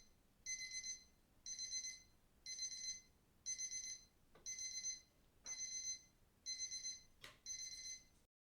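Electronic alarm beeping: a short burst of high, rapid beeps repeated about once a second, stopping just before the end.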